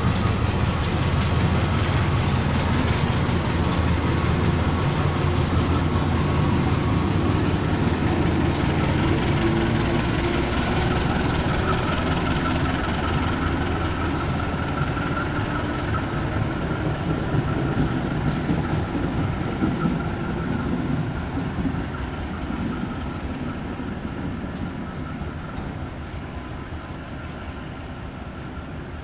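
KAI CC201 diesel-electric locomotive and its train of cars rolling slowly past. The engine's deep hum is strongest in the first ten seconds, then the wheels clatter and a steady high whine carries on as the cars pass. The sound fades steadily as the train moves away.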